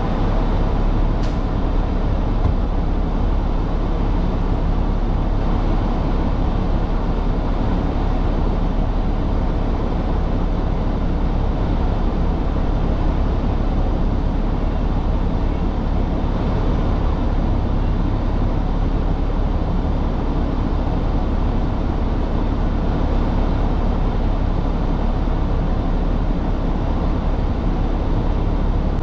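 Heavy truck running with a steady low drone of engine and road noise.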